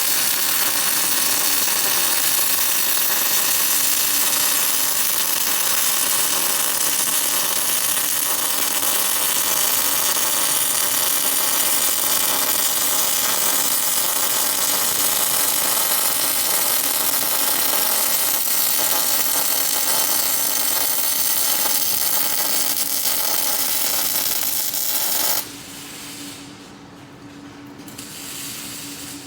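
MIG welding arc laying a continuous bead: a loud, steady hiss that cuts off suddenly about 25 seconds in, leaving a quieter steady hum.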